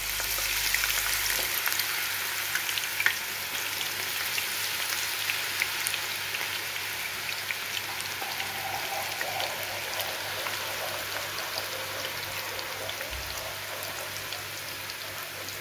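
Raw banana slices deep-frying in hot oil, a steady sizzle scattered with small crackles and pops. It is loudest about a second in, just after the slices are dropped in, and eases a little toward the end.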